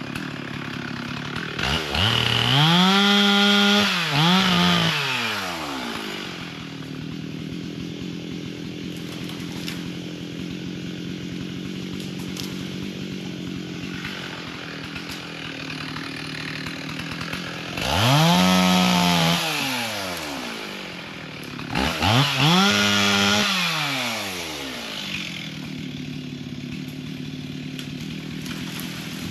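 Two-stroke chainsaw running at idle, opened up to full throttle three times for a few seconds each: early on, and twice near the end, with the pitch climbing, holding and dropping back to idle each time.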